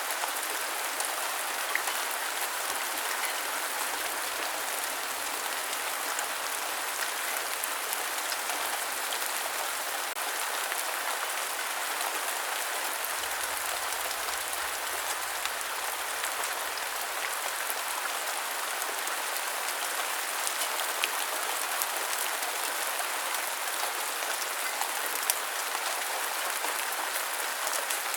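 Steady rain falling in an even hiss, with a few faint scattered drip ticks.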